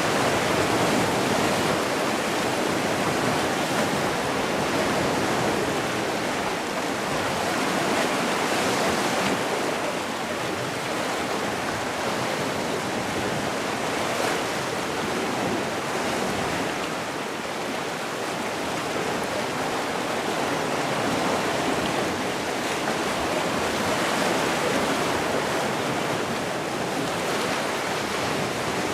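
Sea waves washing on a shore: a steady rushing of water that swells and eases slowly in loudness.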